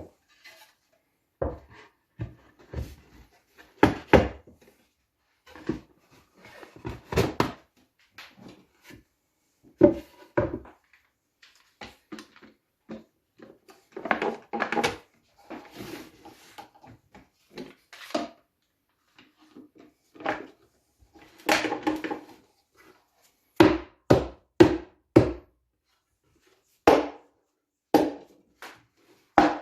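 Wooden beehive box parts being handled and knocked together during assembly, with irregular knocks and clatter. A quick run of sharp knocks comes near the end.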